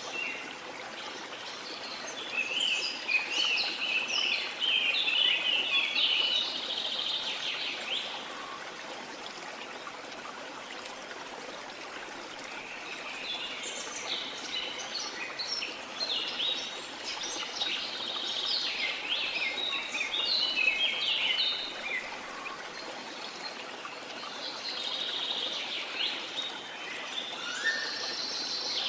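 Steady rush of a waterfall under birds singing quick chirping phrases. The birdsong comes in spells: from about 2 to 8 seconds in, again from about 14 to 22 seconds, and once more near the end.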